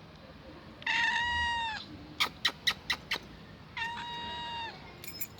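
A hungry older cat meowing twice, each meow about a second long, holding its pitch and dropping at the end. Between the two meows comes a quick run of five or six sharp clicks.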